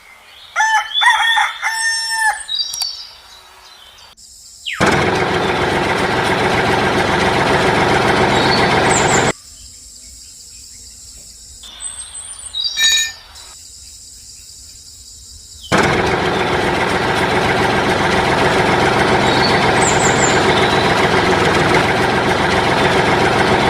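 A rooster crows near the start. It is followed by two long stretches of loud, steady noise, with small bird chirps in the quieter gap between them.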